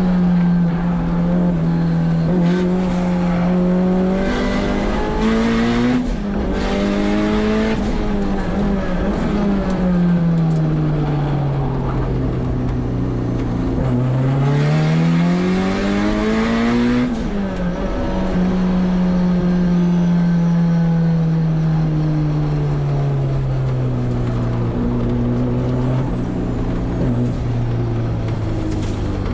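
Turbocharged Honda K24 four-cylinder in a race-prepped S2000 driven hard on track, its note holding, then falling slowly, climbing sharply about halfway through and falling steadily again as the driver works the throttle and gears.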